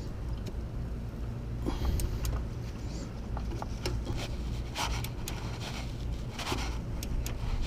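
Scattered metallic clicks and scrapes of hand tools on the engine's timing-belt tensioner bolts, over a steady low hum.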